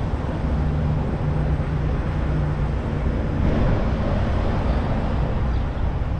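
Steady low rumble of vehicle engines and traffic, with a low hum that holds for a couple of seconds near the start.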